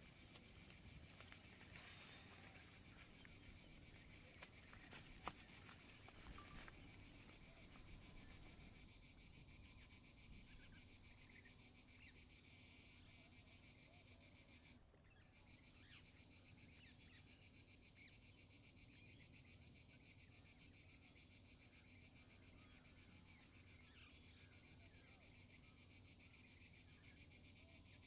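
Faint, steady chorus of insects. The shrilling drops out for about half a second near the middle, then carries on.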